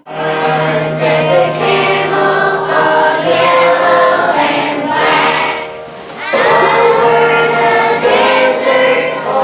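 Children's choir singing a Christmas song in unison, with a short break between phrases about six seconds in.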